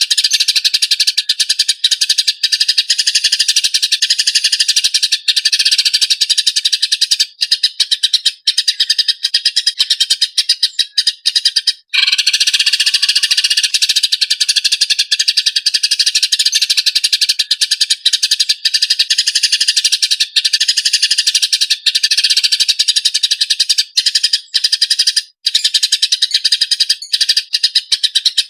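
Small songbird's high, rapid trilling song: a dense, almost unbroken stream of fast repeated notes, pausing briefly about halfway through. It is a looped recording of the kind used to tutor cage birds.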